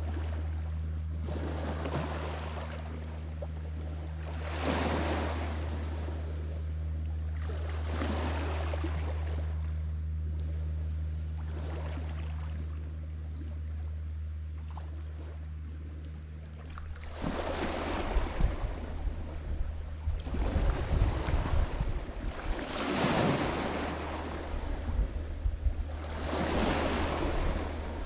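Lake Michigan waves washing onto the shore, each one swelling and fading about every three to four seconds, over a steady low hum. From about two-thirds of the way in, the waves come louder and wind buffets the microphone.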